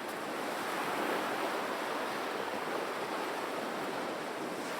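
Ocean surf washing onto the beach, a steady even rush of breaking waves.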